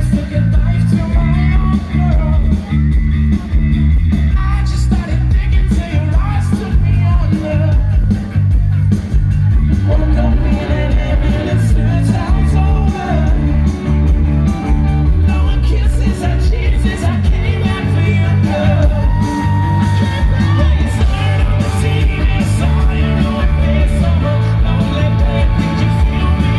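Rock band playing live with a male lead singer, recorded from the crowd: loud and bass-heavy, with the vocals shouted in places.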